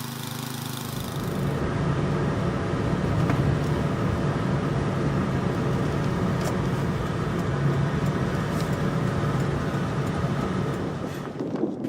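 An engine running steadily, a low hum under a broad rushing noise. It grows louder about a second and a half in and fades near the end.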